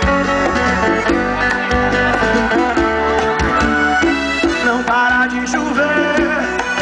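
Live sertanejo band playing an instrumental break, with an accordion carrying the melody over guitar, bass and a steady drum beat.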